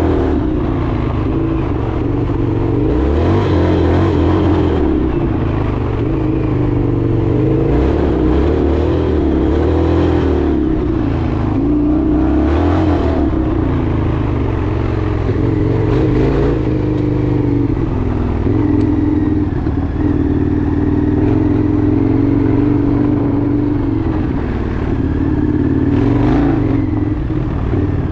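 Indian FTR 1200's V-twin engine running under way, its pitch rising and falling with the throttle.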